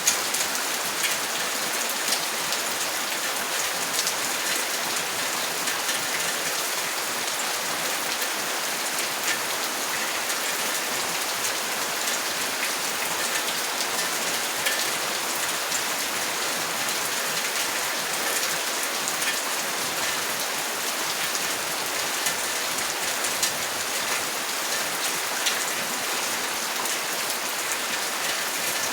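Steady rain falling: an even hiss with many scattered, sharper drop ticks, unchanging throughout.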